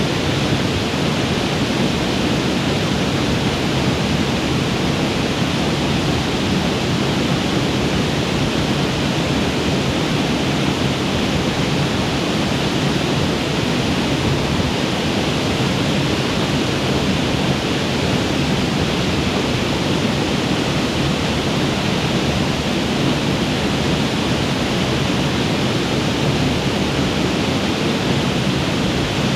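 Waterfall on a mountain creek, water pouring and splashing in a steady, unbroken rush.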